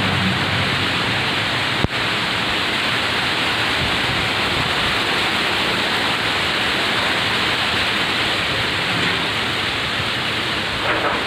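Strong wind blowing steadily: an even, continuous rushing noise, with one brief click about two seconds in.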